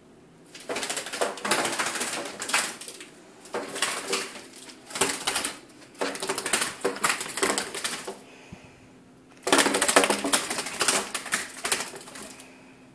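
A bird trapped indoors fluttering and beating its wings against something hard. It makes a rapid clattering in four bursts of two to three seconds each.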